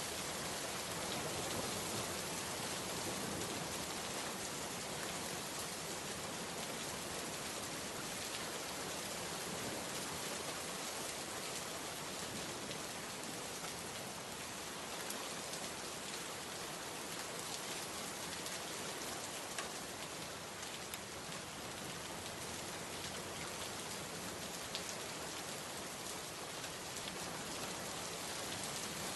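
Steady heavy rain falling and pattering on surfaces, with scattered drop ticks in an even hiss.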